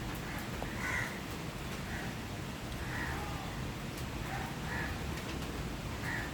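A bird calling repeatedly in short calls, about one a second, over the steady hiss of falling rain.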